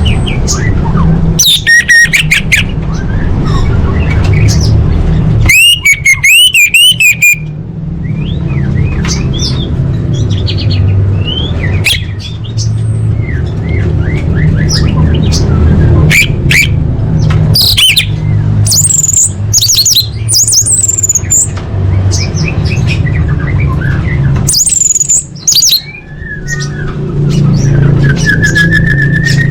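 A female orange-headed thrush gives repeated chattering calls and short squawks. About six seconds in there is a fast, buzzy, wavering trill lasting under two seconds. A loud steady low hum runs underneath.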